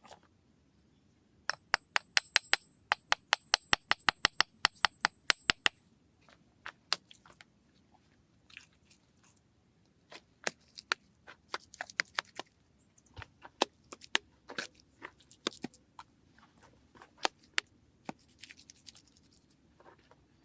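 A fast, even run of sharp clicks, about seven a second, for some four seconds with a faint high ringing over them, then scattered irregular knocks and scrapes.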